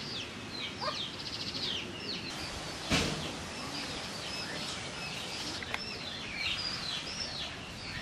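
Small birds chirping repeatedly over a steady outdoor background hiss, with one brief loud noisy burst about three seconds in.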